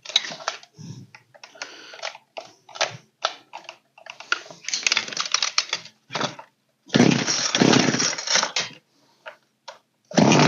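Clicks and rattles from handling an old Poulan chainsaw during idle adjustment, then a loud rasping burst lasting nearly two seconds about seven seconds in. Its two-stroke engine starts running just before the end.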